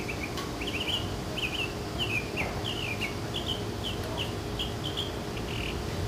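A songbird singing a long, quick series of short, falling chirps, several a second, over a steady low hum.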